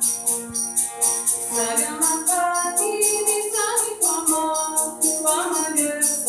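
Sitar band playing live: a steady jingling tambourine beat over a held drone, with singing voices carrying a melody from about one and a half seconds in until near the end.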